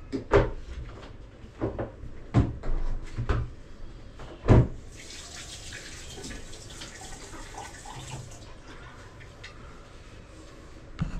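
A few sharp knocks and clatters, then a kitchen tap runs for about three seconds and is shut off.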